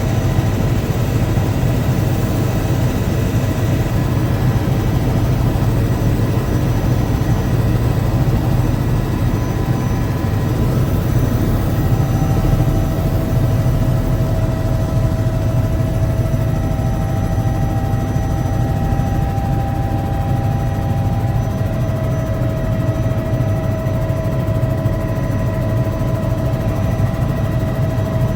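Helicopter in flight, heard from the cabin: a loud, steady engine-and-rotor drone with faint steady whining tones above it.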